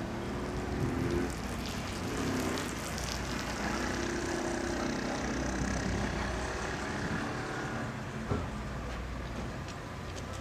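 Steady low hum of the Sunliner 2 high-speed passenger boat's engines running, with a single sharp knock about eight seconds in.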